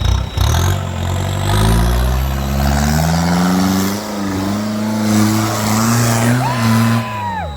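Off-road vehicle's engine revving up over a couple of seconds and held at high revs under load, then dropping off just before the end. A brief high steady tone sounds near the end.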